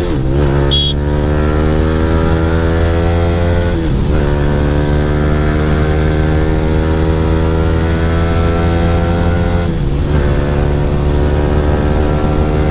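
Yamaha R15 V3's single-cylinder engine through an aftermarket Akrapovic R9 exhaust, accelerating hard through the gears: the pitch climbs steadily, drops at an upshift about four seconds in and again near ten seconds, then climbs again.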